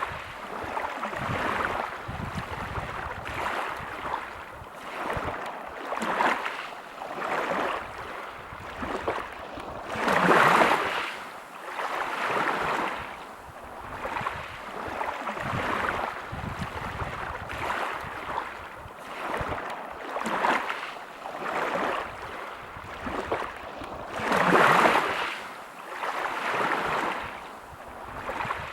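Sea waves breaking over a pebble beach. The wash rises and falls in surges every couple of seconds, with two bigger waves breaking about ten seconds in and again near the end.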